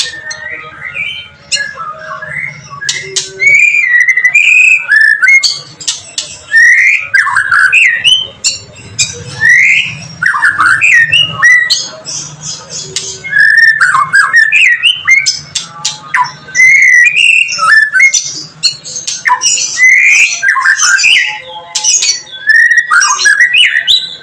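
White-rumped shama singing loudly in agitated, fight-ready mood: a fast, continuous run of varied whistled notes that swoop up and down, broken by sharp clicking notes, in phrases of a second or two.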